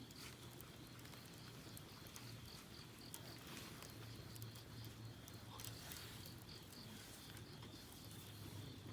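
Faint campfire crackle: scattered sharp pops and snaps of burning wood. Behind it an insect chirps in a steady high pulse, about five a second, over a low hum.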